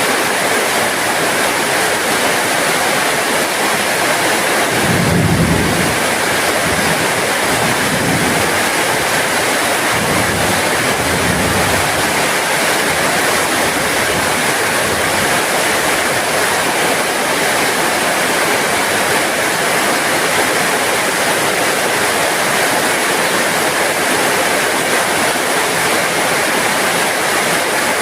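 Heavy rain falling steadily as an even wash of noise. A brief low rumble comes about five seconds in, with fainter low swells a few seconds later.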